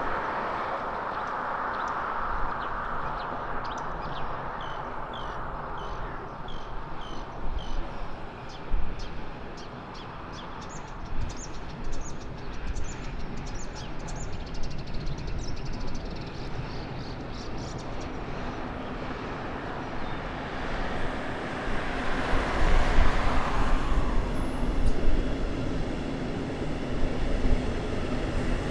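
An electric-locomotive-hauled regional train of double-deck coaches approaching and rolling onto a railway bridge, its rumble swelling over the second half and loudest a few seconds before the end. Earlier, a car passes on the road at the start, and a small bird chirps repeatedly.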